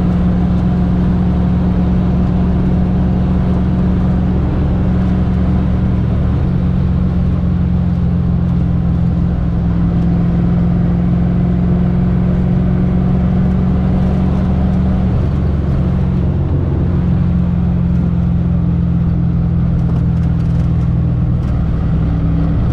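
Fox-body Mustang's engine and road noise, heard from inside the car while driving at steady speed. The engine note shifts to a new pitch a few times, as it changes speed or gear.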